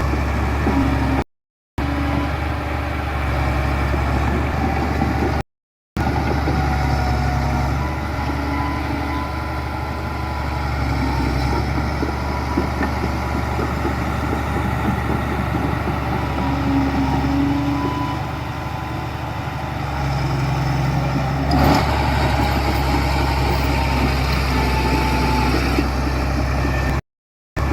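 Heavy diesel construction machinery running steadily, a low engine drone with a single sharp knock about two-thirds of the way through. The sound drops out to silence for a moment three times.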